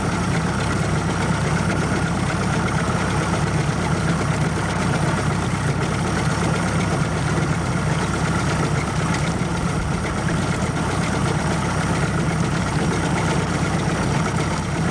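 Motorboat engine running steadily at a low, even speed: a constant hum with a faint steady whine above it.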